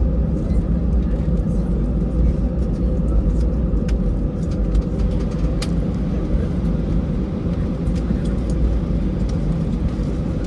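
Steady airliner cabin noise inside an Airbus A320: a constant deep rumble of the engines and airframe, with scattered faint clicks and rattles from the cabin.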